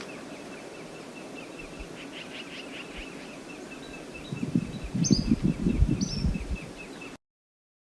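Outdoor river-side ambience with a bird giving a steady, rapid series of short high chirps, about four a second. About four seconds in, a louder, irregular low rumbling and thumping starts and lasts a few seconds, with two short falling bird calls over it. The sound cuts off suddenly near the end.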